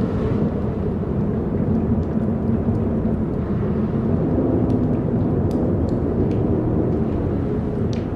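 Strong wind blowing steadily, a low rumble with a faint wavering moan and a few faint ticks.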